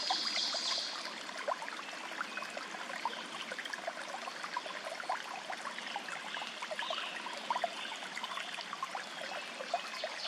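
A small woodland stream trickling and babbling steadily. A high pulsing trill fades out about a second in, and faint chirps come through around the middle.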